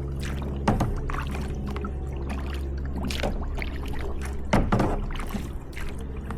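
Kayak paddles dipping and splashing in lake water, a few separate strokes, over a steady low hum.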